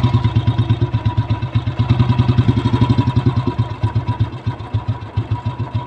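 Royal Enfield Bullet single-cylinder engine idling with an even, quick pulse, just after starting. It eases slightly in the second half.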